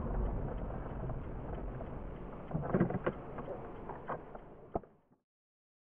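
Steady road and cabin noise from a car dashcam, slowly fading, with a few sharp knocks about three seconds in and one near the end, then cutting off abruptly to silence.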